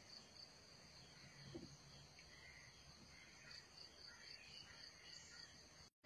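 Near silence with faint insect chirping, a high tone pulsing at an even rate, which cuts off abruptly just before the end.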